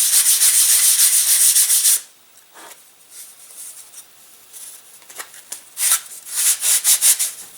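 Sandpaper being worked quickly back and forth over a balsa-wood model glider wing, shaping it down to the ribs, in a fast run of strokes. About two seconds in the sanding drops to a few light, scattered strokes, then picks up again near the end.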